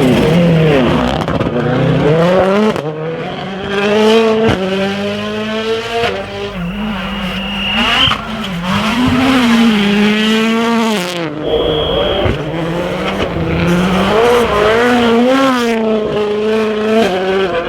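World Rally Cars with 1.6-litre turbocharged four-cylinder engines driven hard on a rally stage. The engine pitch climbs and drops again and again through gear changes and lifts. Two short, steady high whistles are heard partway through.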